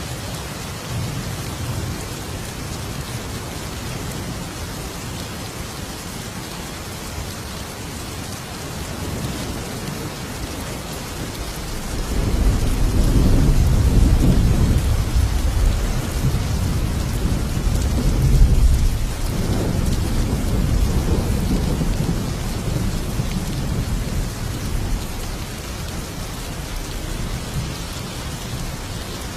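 Thunderstorm: steady heavy rain, with a long roll of thunder that builds about twelve seconds in, swells twice and rumbles away over the next ten seconds or so.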